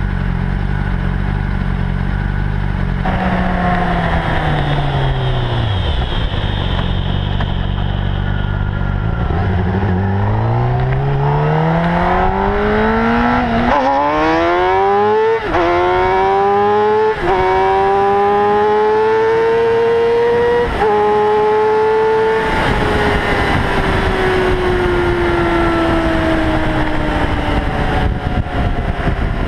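Honda CBR600RR sport bike with a Leo Vince carbon exhaust, accelerating hard through the gears: the engine note climbs in pitch, broken by quick drops at three upshifts, then falls slowly as the bike rolls off the throttle. Before that the note sits steady, then falls away.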